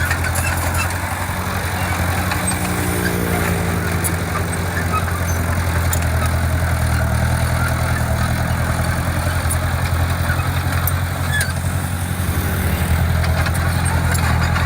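Diesel engine of heavy earthmoving equipment running steadily, a low hum at an even pitch.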